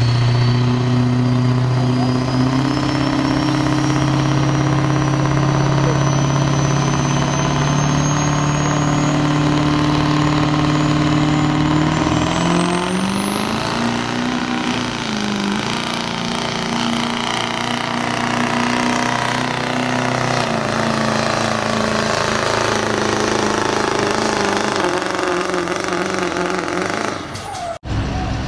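Diesel pickup truck pulling a weight sled under full load: a loud, steady engine drone with a high whine climbing slowly in pitch, the engine note stepping up about twelve seconds in as the whine jumps higher, then easing off after about twenty seconds. The sound cuts out briefly near the end.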